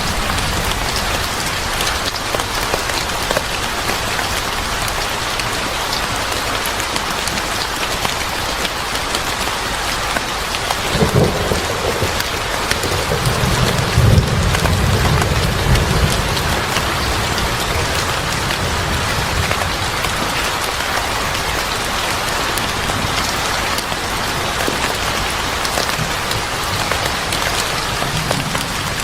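Steady heavy rain pattering on a surface. About eleven seconds in, a low roll of thunder rumbles for several seconds and then fades.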